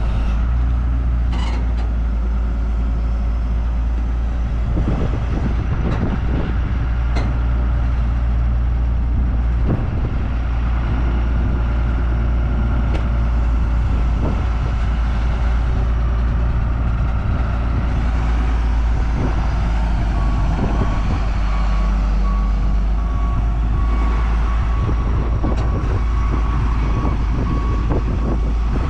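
A vehicle engine running steadily with a deep, even rumble. From about two-thirds of the way through, a steady series of short beeps repeats at an even pace over it.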